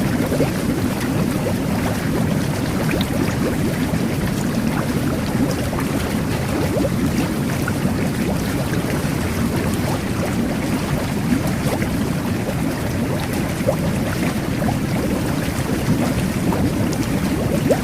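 Jet bath running: a steady churn of bubbling, turbulent water with small scattered pops.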